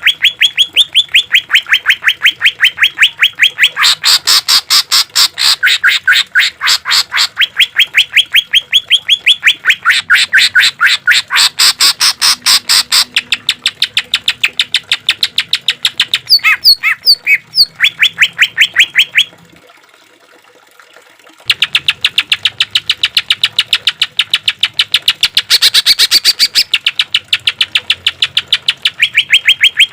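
Cucak ijo (green leafbird) singing a long rapid-fire run of sharp repeated notes, about six a second, the 'tembakan' phrases of a full-song training recording. The run breaks off for about two seconds roughly two-thirds of the way through, then resumes.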